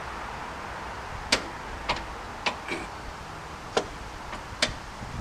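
John Deere lawn tractor running steadily while mowing, with about six sharp clicks or knocks over its sound.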